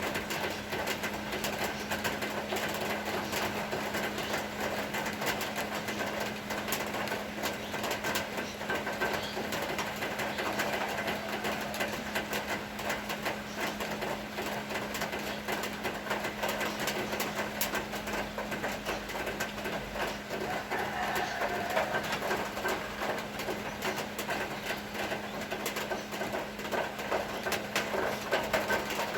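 Rain shower falling, a dense, irregular ticking of raindrops hitting surfaces, over a steady low hum.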